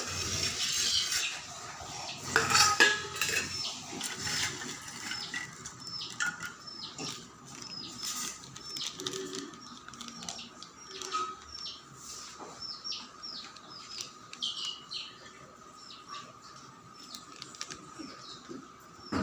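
Kitchen utensils and dishes clinking and knocking, with a small bird chirping over and over in short high notes through most of it.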